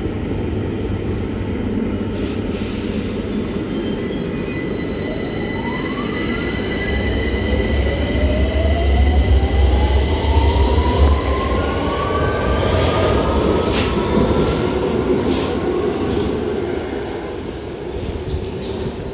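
London Underground Victoria line train accelerating out of the platform: a steady electrical hum with traction-motor whines rising in pitch from about five seconds in, and a heavy low rumble that peaks midway and eases off near the end.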